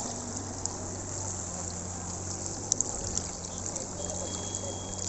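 Steady rush of flowing floodwater, with a low steady hum underneath.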